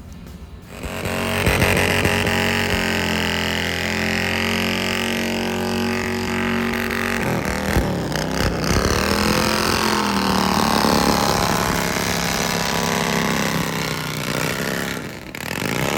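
Harley-Davidson V-twin motorcycle engine running loud and steady, its pitch dropping and climbing again about halfway through as the revs change.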